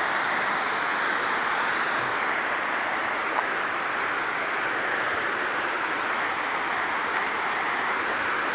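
Large waterfall rushing steadily, with one brief tick a little over three seconds in.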